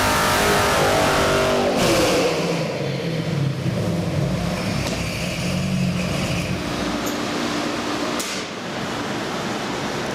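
327 small-block Chevy V8 crate engine with a carburettor and hydraulic roller cam, running on an engine dyno. It is held at high revs, then the throttle closes about two seconds in and the revs fall away to a steady idle.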